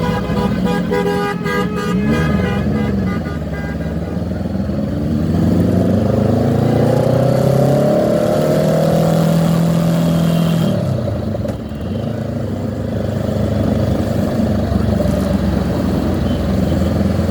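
Road traffic in a motorcycle convoy. Horns honk at the start. Then an engine accelerates, its pitch rising for a few seconds, and it cuts back just past the middle. Engines keep running underneath throughout.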